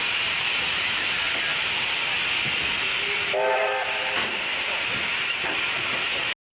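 Steam train: a steady hiss with a brief whistle toot about halfway through, then the sound cuts off suddenly near the end.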